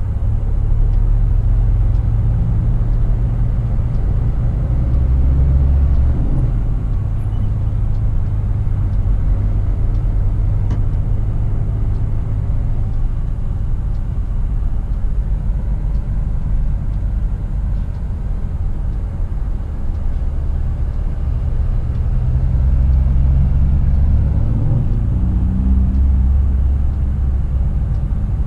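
Scania R450 truck's 13-litre inline-six diesel engine running under way on the highway, with a steady low drone and road noise. Its pitch steps up and down a few times.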